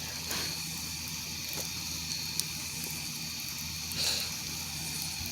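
Campfire burning with a soft steady hiss and a couple of small crackles about two seconds in, crickets trilling steadily in the background.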